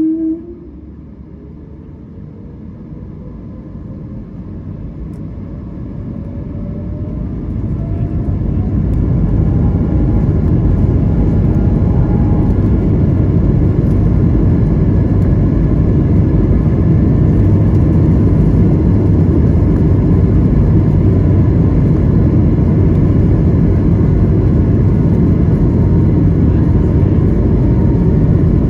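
Airbus A220-300's Pratt & Whitney PW1500G geared turbofan engines heard from inside the cabin, spooling up to takeoff power with a rising whine over about ten seconds. A loud, steady low noise from the takeoff roll then holds.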